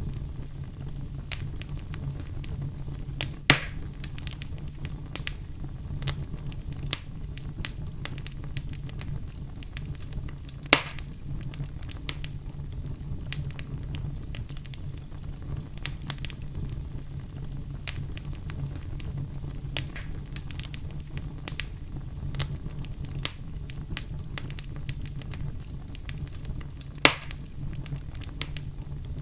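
Wood fire in a fireplace crackling steadily under a low rumble of flame, with frequent small snaps and three louder pops.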